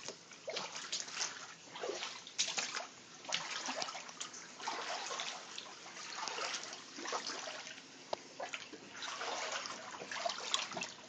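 Feet wading through shallow floodwater on an apartment floor, the water splashing and sloshing in irregular bursts about once a second.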